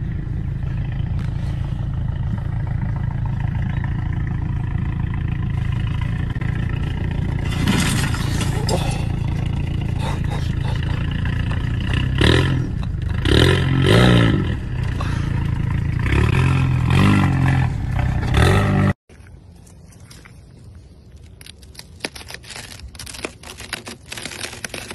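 A lowered Volkswagen Golf GTI's engine and exhaust rumbling low as the car crawls over rough ground, swelling louder in several bursts past the middle. The sound cuts off abruptly about three-quarters of the way in, leaving faint crackling.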